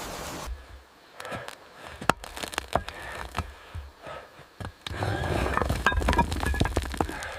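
Irregular sharp knocks and clicks with scraping, growing denser and louder about five seconds in.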